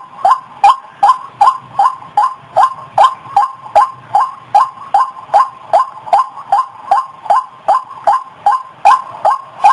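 White-breasted waterhen (ruak-ruak) calling: a short harsh note repeated evenly, about two and a half times a second, each note falling slightly in pitch.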